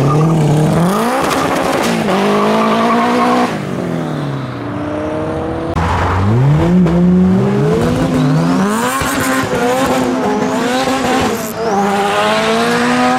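Modified Honda Civic engines revving hard as one car after another pulls away. Each engine note climbs in pitch, then drops back as the driver shifts or lifts off, in several separate pulls.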